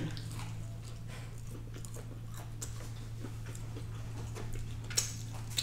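Close-miked chewing of a McDonald's Sweet N' Spicy Honey BBQ glazed chicken tender: faint, scattered wet mouth clicks over a steady low hum, with a sharper click about five seconds in.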